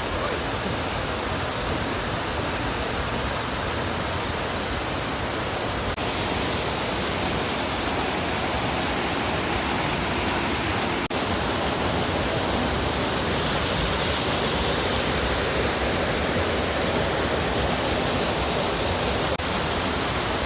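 Waterfall rushing: a steady, even roar of falling water across several short cuts, slightly louder from about six seconds in.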